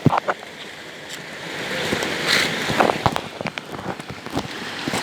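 Flowing river or stream water making a steady rushing noise, with scattered sharp clicks and knocks through it.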